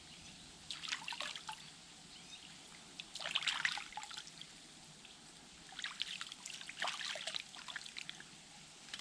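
Hands being washed in water: splashing and dribbling in several short bursts, a couple of seconds apart.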